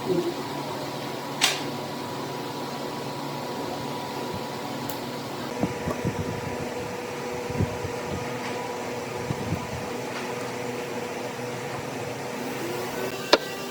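Steady fan-like hum of running workshop machinery, with thin steady tones in it, a few light knocks, and a sharp tap near the end.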